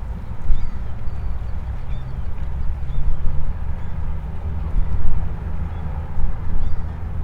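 Wind buffeting the microphone in gusts, over the low hum of a boat engine running, with a few faint bird chirps.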